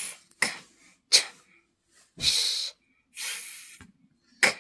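A voice saying the phonics sounds as bare consonants, without vowels: short "ch" bursts, a longer "sh" hiss, a softer breathy "th", and a sharp "k" near the end.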